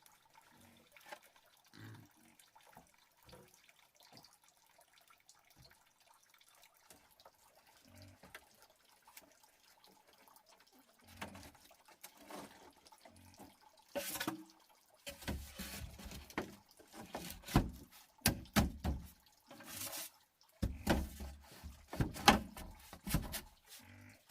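Water dripping and splashing. It starts faint and sparse, and about halfway through it turns into a busy run of sharp splashes and knocks.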